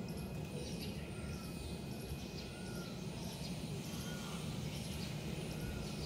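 Outdoor ambience: a steady low background rumble with faint, short bird chirps about every second and a half.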